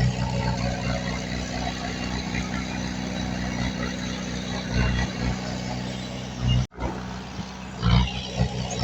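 Heavy earthmoving machinery's diesel engine running steadily, with a few louder low swells as it works. The sound drops out for an instant about two-thirds of the way through.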